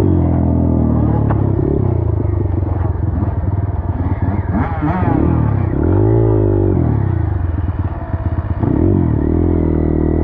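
Small dirt bike engine running close by as the bike is ridden, its pitch rising and falling repeatedly as the throttle is opened and eased off, with several sharp rev-ups about halfway through and again near the end.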